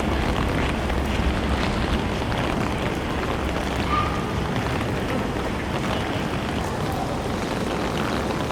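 Steady rain on a city street mixed with passing traffic, with a constant low rumble underneath.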